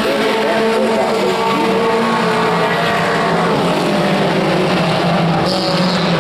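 Pro 4 race trucks' V8 engines running at speed on the oval in a steady, loud drone, several engines overlapping.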